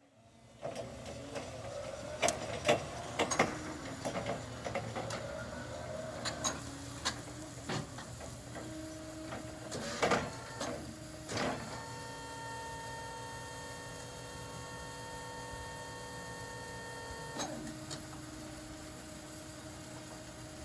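Clark TM15S three-wheel electric forklift being operated: its electric motors whine and shift in pitch, with sharp clicks and knocks in the first half. From about the middle a steady whine with several tones sets in and cuts off suddenly a few seconds before the end.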